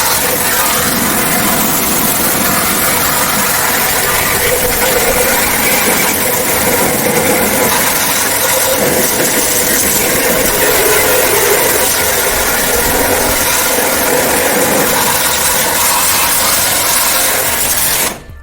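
A machine running steadily with a loud, even hiss, cutting off suddenly near the end.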